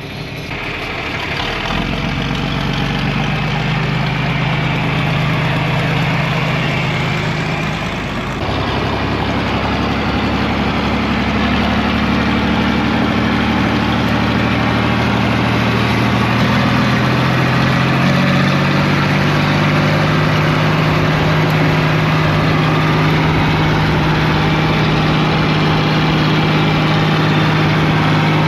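John Deere 4000 tractor engine throttling up and running, its pitch climbing over the first few seconds. About eight seconds in it breaks off abruptly, climbs again, then settles into a steady run.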